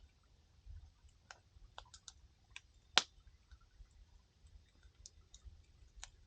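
Wood campfire crackling: scattered small pops of burning firewood, with one sharp, much louder pop about halfway through.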